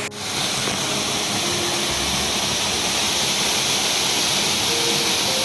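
Waterfall: a loud, steady rush of falling water, starting abruptly and cut off abruptly.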